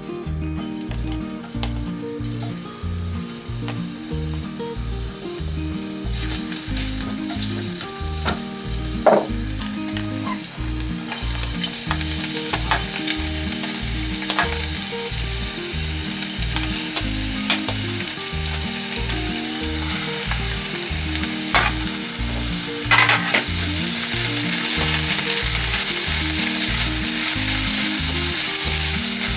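Julienned vegetables sizzling in hot oil in a stainless steel saucepan as a spatula stirs them. The sizzle builds from about six seconds in and grows louder, with a few sharp knocks of the spatula against the pan. Background music with a steady bass beat plays underneath.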